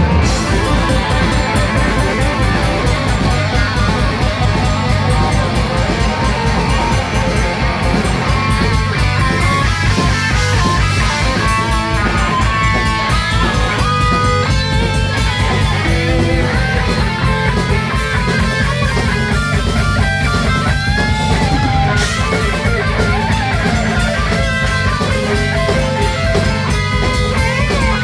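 Live rock band playing loud: electric guitars over bass and a pounding drum kit, with a stepping melody of held notes coming in about eight seconds in.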